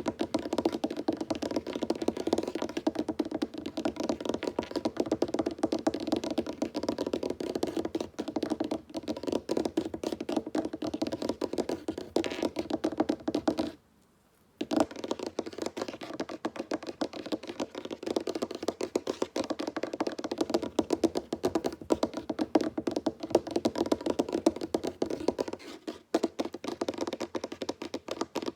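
Fast, dense fingertip tapping on a wooden tabletop, the taps running together in a quick patter, with a pause of about a second near the middle.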